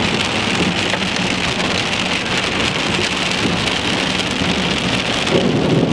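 Heavy rain drumming steadily on a car's windshield and roof, heard from inside the car, with a low steady hum underneath.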